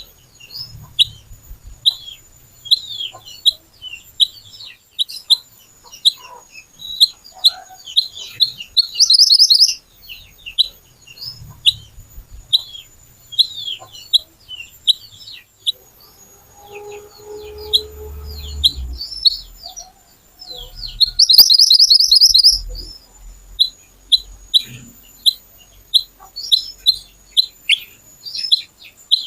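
Small minivet (burung mantenan or kuniran) calling, a steady stream of short, sharp high chirps broken by two loud, fast trills about nine and twenty-one seconds in. A brief low rumble with a hum passes about seventeen seconds in.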